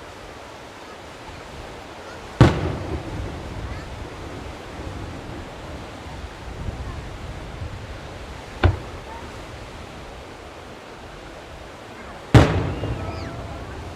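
Aerial firework shells bursting: three sharp booms several seconds apart, the first and last loudest, each trailing off in a rumbling echo over a steady hiss of background noise.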